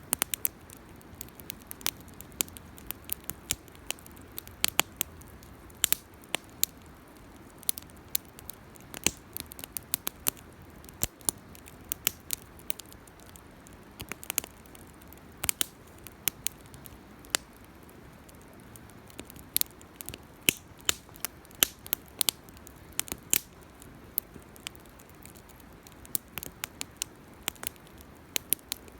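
Wood fire crackling, with frequent irregular sharp pops and snaps over a soft steady hiss.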